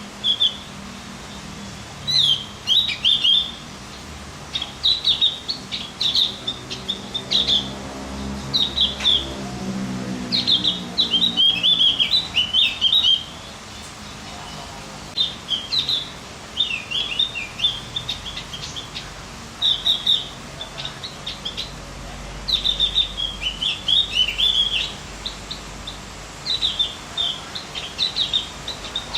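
Small songbird singing quick, jumbled phrases of high chirps and trills, burst after burst with short pauses between. A faint low hum swells and fades in the background about ten seconds in.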